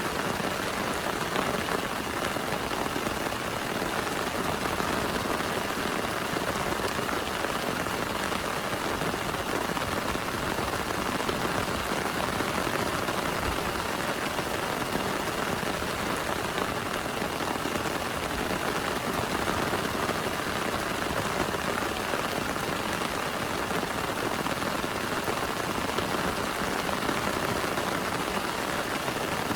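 Heavy rain pouring steadily onto a plastic tarp: a dense, even patter that holds at the same level throughout, with no thunder.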